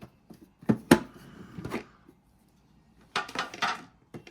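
Handling of a trading-card tin and its packs: two sharp knocks about a second in, a lighter tap, then a short rustle of card and wrapper near the end.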